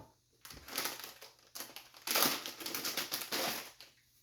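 Packaging being unwrapped from a wrist strap, rustling in irregular bursts that are loudest from about two seconds in until near the end.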